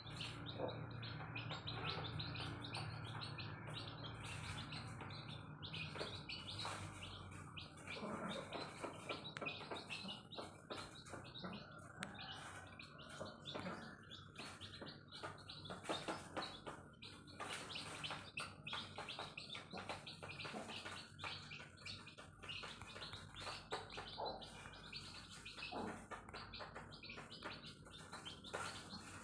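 Newborn chicks peeping continuously, many short high chirps overlapping in quick succession.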